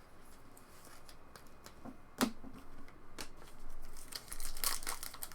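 Trading cards being handled, with a few sharp clicks, then a card pack wrapper crinkling and tearing open from about four seconds in.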